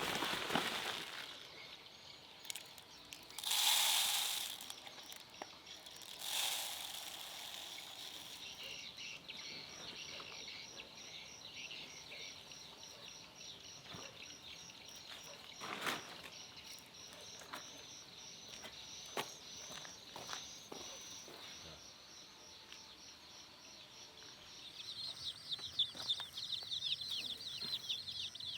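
Rural outdoor ambience: a steady, evenly pulsing high insect trill, with a few short rustles early on. Rapid high chirping of birds builds near the end.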